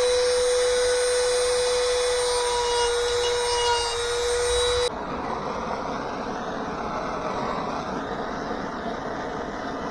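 Dremel rotary tool running at high speed with a steady high whine as it engraves designs into ash wood. The whine cuts off suddenly about five seconds in, giving way to a quieter, steady rushing noise.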